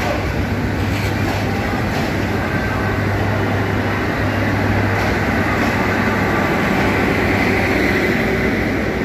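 Bangladesh Railway intercity passenger train rolling slowly past along the platform: a steady low rumble and hum with a few light clicks from the wheels.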